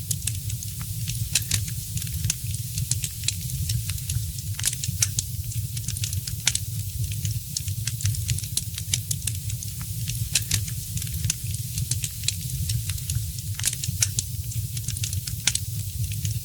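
Wood fire in a fireplace crackling, with frequent sharp, irregular pops and snaps over a steady low rumble of the flames.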